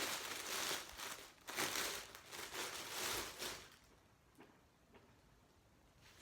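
Plastic packaging wrap crinkling as it is handled and opened, in several rustling bouts, stopping about two-thirds of the way through, after which only a few faint rustles are left.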